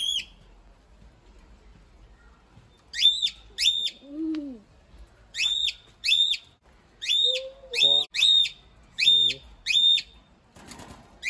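Cockatiel contact calls: about a dozen short, loud, high calls, some coming in quick pairs, with pauses of a second or two between them.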